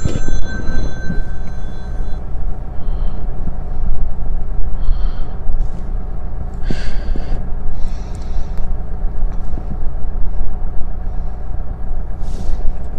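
Car's 1248 cc engine heard from inside the cabin, running steadily at idle, about 800 rpm, as the car creeps off in first gear with the clutch released and no accelerator. A steady high electronic tone sounds over it for the first two seconds or so.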